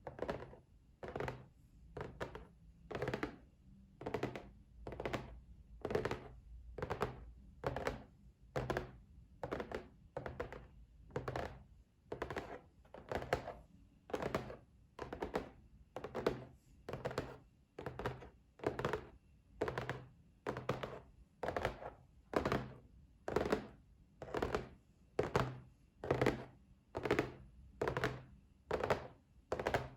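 Fingers tapping on a box in a slow, steady rhythm: dull, hollow knocks, roughly one to two a second.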